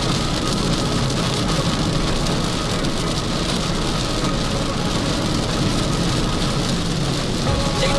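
Steady rain hitting a Proton S70 with its engine running, heard from inside the cabin as an even hiss over a low rumble.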